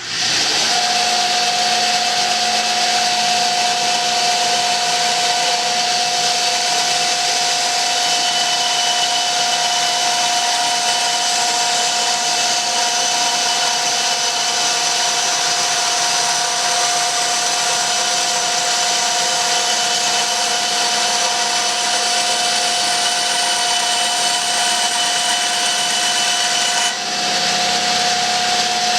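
Electric power saw running steadily on wood, its motor holding one constant whine; the sound changes abruptly about two seconds before the end.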